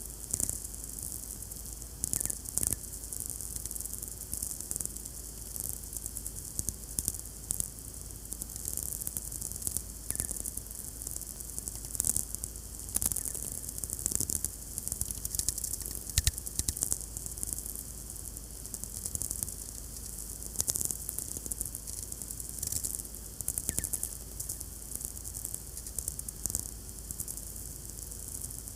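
VLF radio receiver picking up natural electromagnetic noise from distant lightning (sferics): a steady hiss with dense, irregular crackling clicks and a few louder cracks, over a steady low hum.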